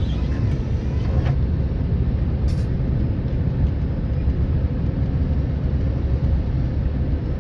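Truck driving on the road, heard from inside the cab: a steady low rumble of engine and road noise, with a brief click about two and a half seconds in.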